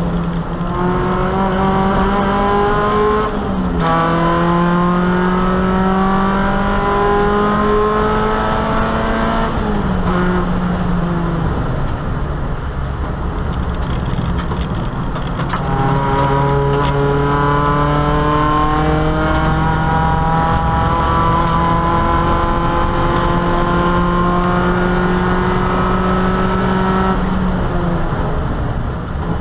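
Opel Kadett E race car's four-cylinder engine, heard from inside the stripped cabin, pulling hard under full load. The pitch climbs, drops sharply at an upshift a few seconds in, then climbs again before the note breaks up into rougher noise about ten seconds in. From about halfway it pulls in one long, slowly rising run, dropping again near the end.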